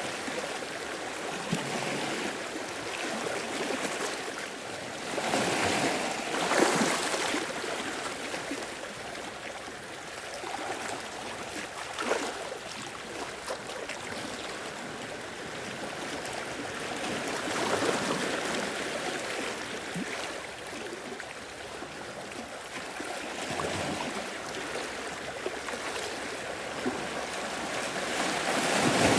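Sea waves washing in and out, a steady wash of water that swells with each surge every few seconds.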